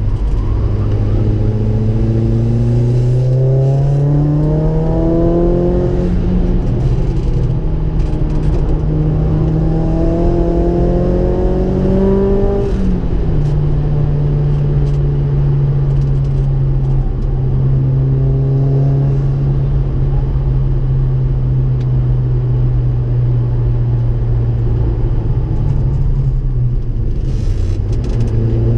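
Ford Focus RS engine heard from inside the cabin at track pace. It pulls hard, its pitch climbing until a gear change breaks it about six seconds in, then climbing again. About halfway it drops and holds a steady note through a long corner, and it rises again near the end.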